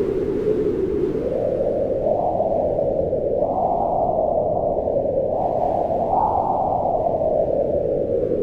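Howling wind: a steady rush with a hollow, moaning tone that rises in pitch as the gusts build, twice, and sinks again near the end.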